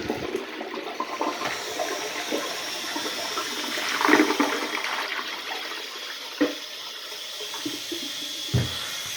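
A 1991 URC toilet flushing: water rushing through the bowl, surging about four seconds in, with two sharp knocks in the second half and a thin steady hiss of the tank refilling toward the end.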